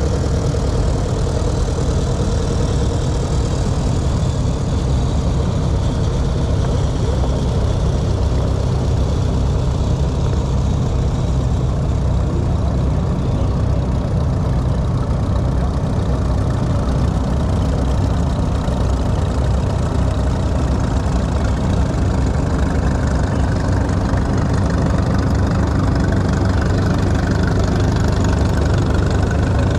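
An engine running steadily at idle, a continuous low, even running sound with no change in speed.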